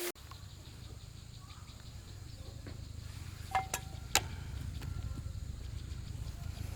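Two or three sharp metal clinks, ringing briefly, about halfway through, over a low steady rumble.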